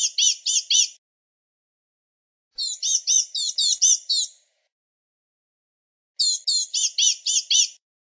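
Blue-gray gnatcatcher singing: short bursts of quick, thin, high-pitched notes, about five or six notes in each. One burst ends about a second in, and two more follow, each about a second and a half long with roughly two-second pauses between.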